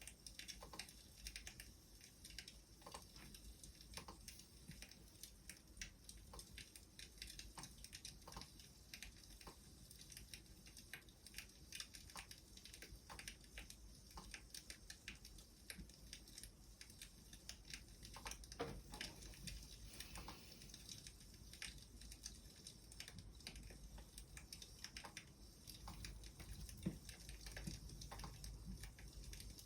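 Faint wood fire crackling: irregular sharp pops and snaps over a soft hiss.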